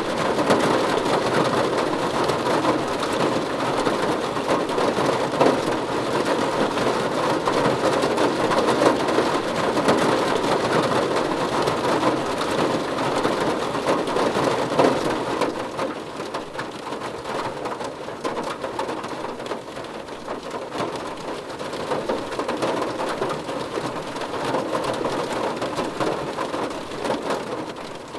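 Steady rain falling, a dense hiss with many small drop clicks. It gets a little quieter about halfway through.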